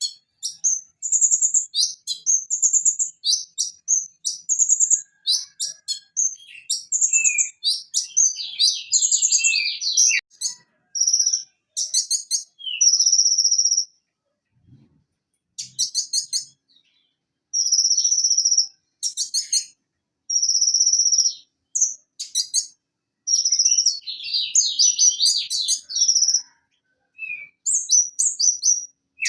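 A konin sunbird (Leptocoma sperata) singing. It gives high, sharp phrases and rapid trills in quick bursts with short pauses between them, and a longer pause about halfway through.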